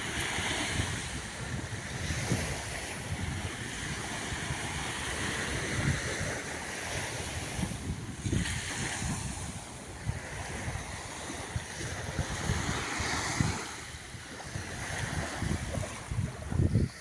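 Sea waves washing onto a sandy beach in a steady hiss, with gusts of wind rumbling on the microphone.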